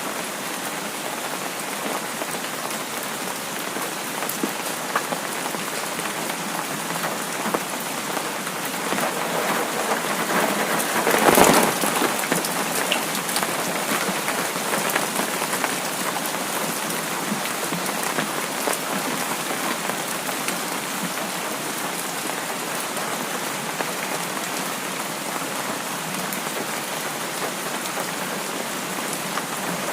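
Steady rain falling on a surface, an even patter of drops. About a third of the way through it briefly swells louder, with a low rumble underneath, then settles back.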